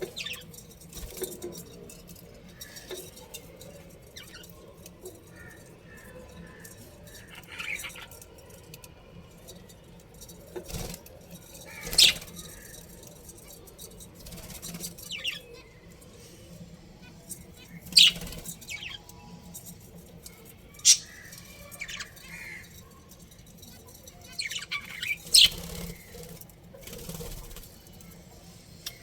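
Budgerigars chirping: scattered short calls, with four sharp, loud chirps standing out, spread through the stretch.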